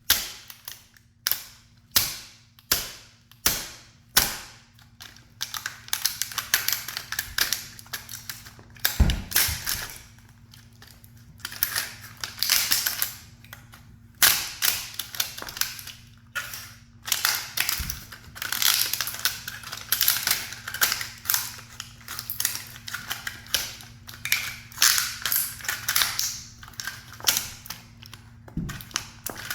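A toy sports car being crushed under a high heel: a run of sharp plastic cracks and snaps, about two a second at first, breaking into denser crackling crunches as it gives way.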